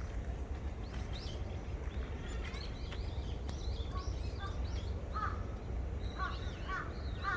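Small birds chirping with quick high twittering calls, and from about halfway a crow cawing in a run of short repeated calls, over a steady low rumble.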